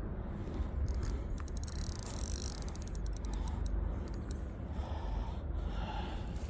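Fishing reel being wound in, giving runs of rapid mechanical clicking with a short hiss partway through, over a steady low rumble.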